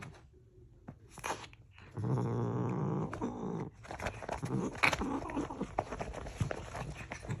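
A domestic cat gives one long, low-pitched call about two seconds in, held for about a second and a half. After it come scattered clicks and rustling.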